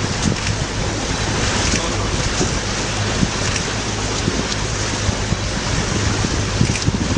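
Water washing and splashing against rocks: a steady rush of surf with many small splashes breaking through it.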